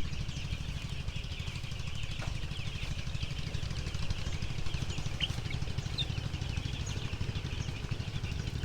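A flock of week-old broiler chicks peeping continuously, many high short peeps overlapping, over a steady low rumble.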